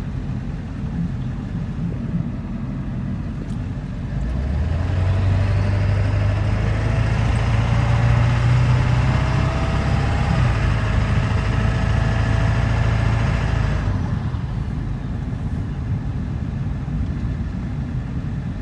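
Ford 7.3-litre Power Stroke V8 turbo-diesel with its muffler cut off, running under way. About four seconds in it pulls harder and grows louder, its note rising slowly for some ten seconds, then it eases off back to a lower, steady drone.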